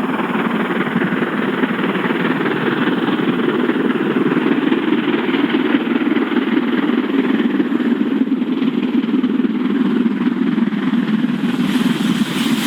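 A vehicle running, a loud steady rumble without let-up.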